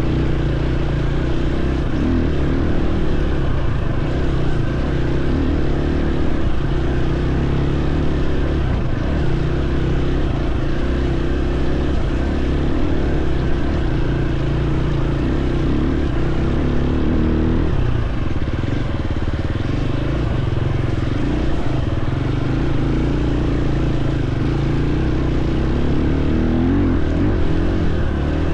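Dirt bike engine running steadily under way, with a brief dip and change in pitch about two-thirds of the way through.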